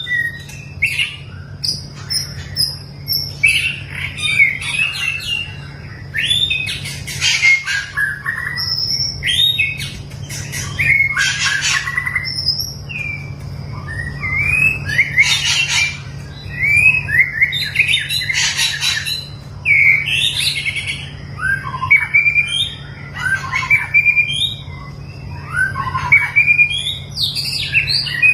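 White-rumped shama singing a long, varied song of quick whistled and chirped notes, broken every few seconds by harsh rasping bursts. A steady low hum runs underneath.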